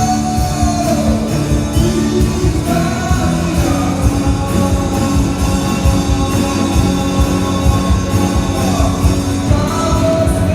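A worship band playing a rock-style Christian song, with a steady drum beat under guitar and held sung notes.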